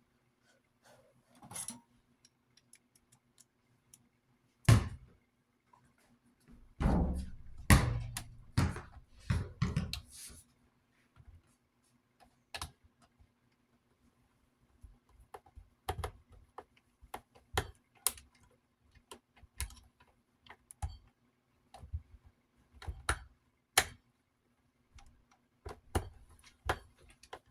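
Knocks and clicks of an old metal desk fan being handled. There is a loud thunk about five seconds in and a cluster of knocks a couple of seconds later, then sharp clicks about once a second, over a faint steady hum.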